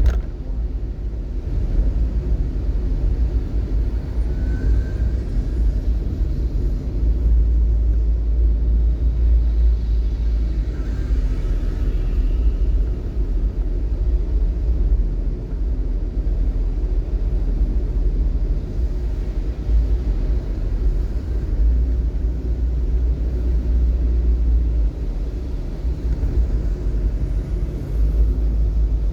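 Steady low rumble of road and wind noise from a vehicle travelling in traffic.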